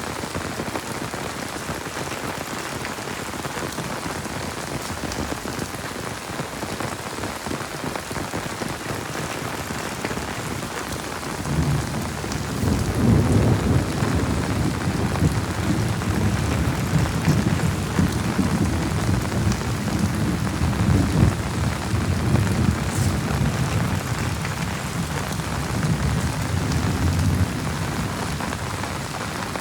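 Heavy rain falling steadily. About a third of the way in, a long roll of thunder rumbles low for some fifteen seconds, then fades out near the end.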